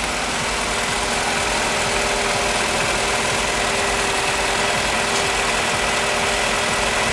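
Nissan Sentra 2.0L four-cylinder engine idling steadily, just after its ignition coils, spark plugs and intake manifold gaskets have been replaced to cure a misfire.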